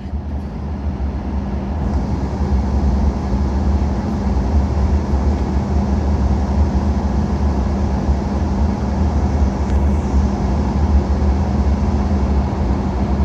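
Steady cabin drone inside an Embraer E190 airliner in flight on descent: the hum of jet engines and airflow, with a low rumble and a steady tone. It fades up over the first two seconds, then holds.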